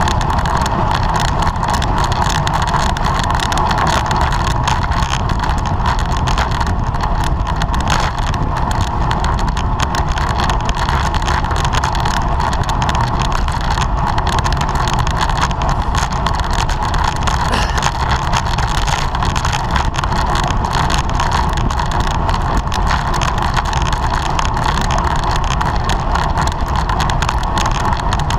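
Steady wind rush over the microphone of a camera on a road bike at race speed, with tyre and drivetrain noise and a constant mid-pitched hum running through it.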